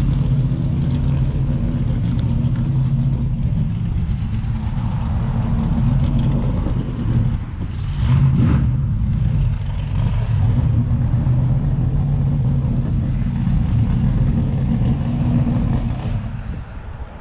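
1969 Corvette's V8 engine running hard under way, a deep steady note that dips briefly about seven seconds in, picks up again, and fades near the end.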